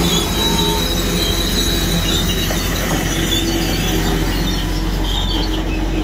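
Freight cars rolling through a grade crossing, steel wheels squealing on the rail over a steady low rumble of the train.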